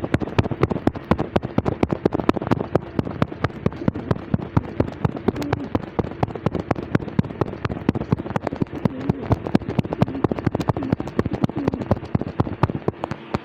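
Rapid, irregular clicking and tapping, several sharp clicks a second, over a steady low hum. The clicking stops suddenly at the end.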